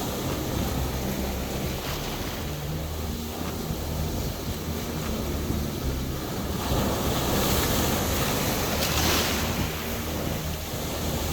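Sea waves washing onto a beach, with wind buffeting the microphone; one wave swells louder near the end.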